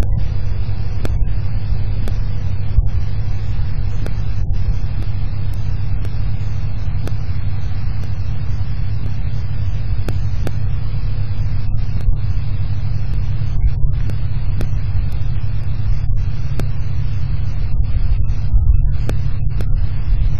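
Thunderstorm on an outdoor wildlife-camera microphone: a heavy, steady low rumble of wind and rain with a hiss over it and scattered sharp ticks.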